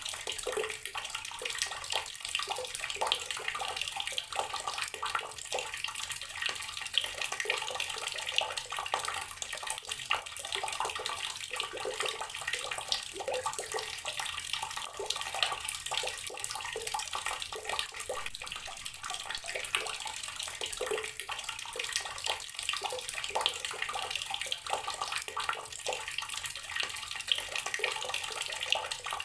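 Water running steadily from a tap and splashing into the water and basin below, a continuous spattering hiss without a break.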